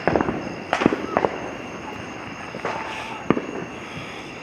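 Many consumer fireworks going off at once: a cluster of sharp bangs and pops in the first second and a single loud bang about three seconds in, over a steady crackle of fainter ones.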